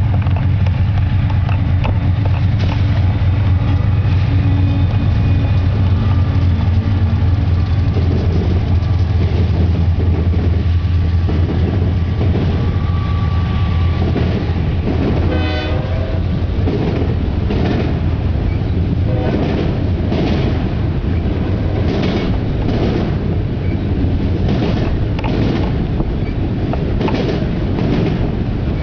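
Freight train passing. The diesel locomotives give a deep, steady drone for the first several seconds. Then autorack cars roll by, with a rhythmic clickety-clack of wheels over the rail joints.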